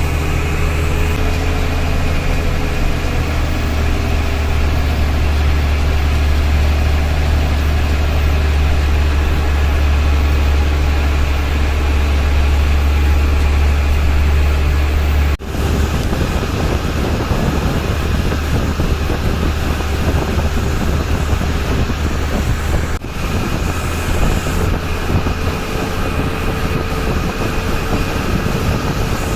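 Tata bus's diesel engine running with road noise, a strong low drone under a steady rush. The drone drops away at a sudden cut about halfway through, leaving mostly road rush, and there is another sudden cut later on.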